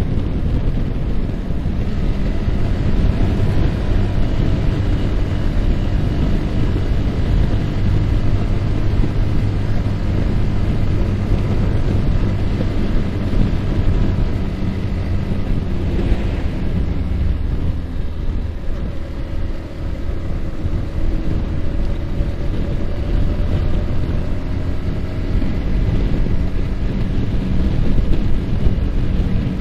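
Yamaha R15's single-cylinder engine running while riding, with heavy wind rushing over the microphone. The engine note eases off briefly past the middle, then climbs steadily as the bike accelerates.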